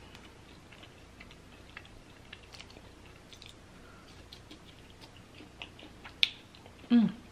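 A person chewing battered fried mushrooms close to the microphone: faint, irregular wet clicks and smacks of the mouth. There is a sharper click about six seconds in and a short voiced hum near the end.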